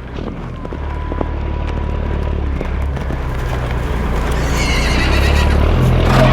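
A horse's neigh, high and pitched, about four and a half seconds in, over a low steady rumble that grows louder throughout.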